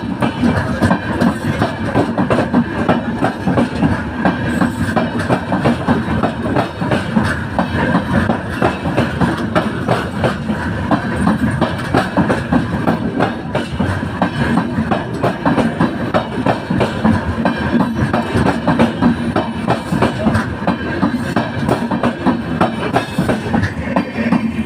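Awadh Express passenger train running, its wheels clattering rapidly and steadily over the rail joints.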